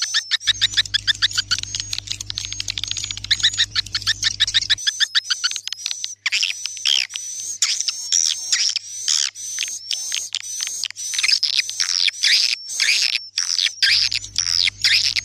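Swiftlet call recording of the kind used to lure swiftlets into nesting houses: many swiftlets twittering in dense, rapid, high chirps and falling sweeps. A steady low hum runs underneath for the first few seconds and comes back near the end.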